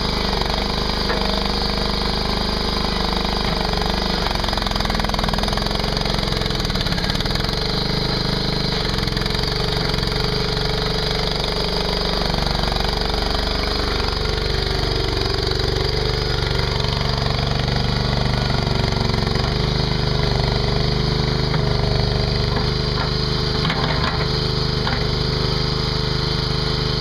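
Mini skid steer's engine running steadily as it works dirt, its note changing a few times, with a few sharp knocks near the end.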